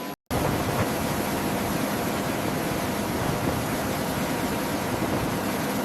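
Steady, even roar of turbine aircraft noise on a flight line, with a faint high whine. It begins abruptly after a brief dropout just after the start.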